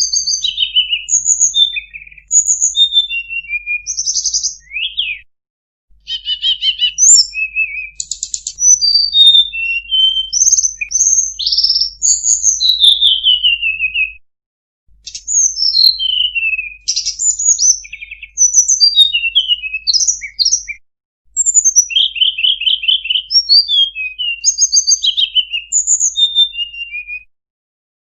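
A tledekan gunung (Sunda robin) singing a fast, varied song stuffed with imitated phrases: high chirps, trills and quick falling whistles. It sings in long runs with brief pauses about five, fourteen and twenty-one seconds in.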